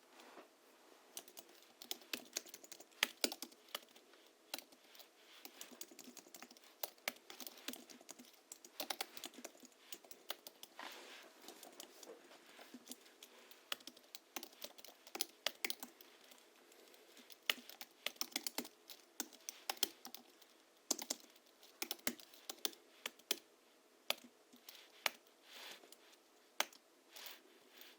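Typing on a Hansung GHL-5X keyboard tuned with 50 g rubber domes, springs lubricated with Krytox 103 and 107, and sound-absorbing foam in the bottom case. Keys clack in irregular quick flurries with brief pauses between them.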